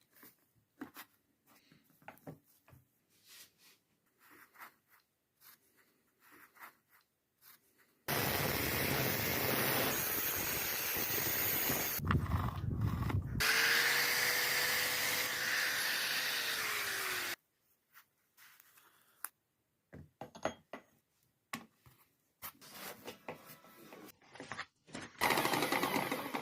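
Scattered light clicks and knocks of parts being handled. About eight seconds in, an electric motor starts and runs steadily for about nine seconds, its whine dropping as it winds down. Then more clicks and a brief burst of running near the end.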